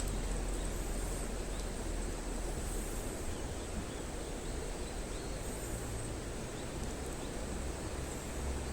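Wood campfire burning outdoors: a steady low rumble and hiss, with a few faint crackles and faint high chirps now and then.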